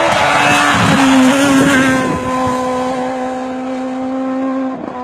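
Rally car passing close at full throttle, loudest about a second in, its engine then holding high revs as it pulls away. There is a brief break in the engine note just before the end, like a gear change.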